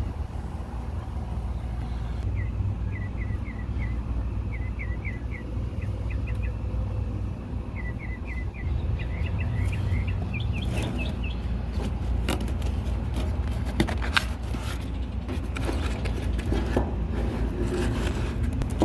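A steady low rumble, with a small bird chirping in quick groups of three or four short notes through the first half, then a string of scrapes and knocks in the second half.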